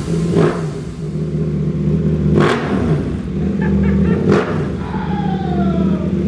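A 2022 KTM RC8C race bike's parallel-twin engine running at idle and revved in short sharp blips, three times, with the revs falling away after each.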